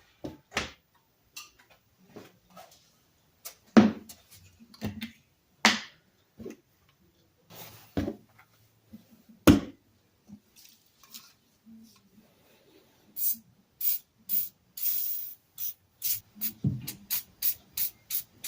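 Scattered sharp knocks and clinks from working a stuck part loose on a Stanley Yankee Handyman 233H push drill. About two-thirds of the way in comes a quick run of short hissing sprays, two to three a second, of penetrating oil to free the seized part.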